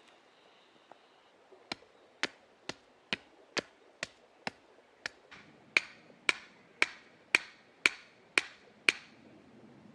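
Steady hammer blows, about fifteen strikes at roughly two a second, the later ones louder and with more ring.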